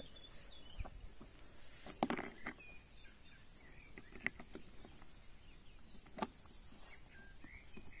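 Birds chirping in short, scattered calls, with a few sharp clicks and knocks.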